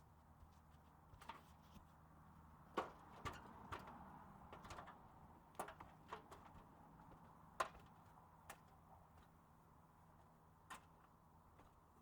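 Faint, scattered clicks and knocks, about a dozen, irregularly spaced, with the sharpest near 3 and 7.5 seconds in, over a low steady hum.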